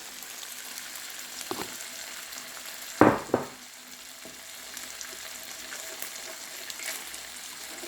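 Eggs frying in butter in a frying pan, a steady light sizzle. About three seconds in there are two sharp knocks in quick succession.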